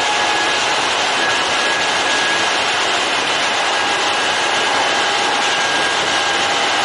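Kintetsu electric commuter train running at a steady speed, heard from the cab: an even rushing rumble of wheels and running gear with a faint steady whine.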